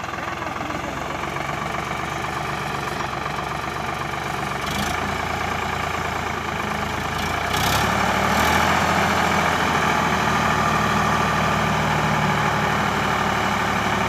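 Sonalika DI 750 tractor's diesel engine running steadily while it powers the trolley's hydraulic tipper, picking up revs and getting louder about eight seconds in.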